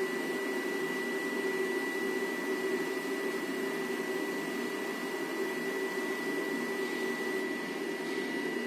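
Powder-coating equipment running steadily, a continuous whirring hum with a thin, steady high-pitched whine over it.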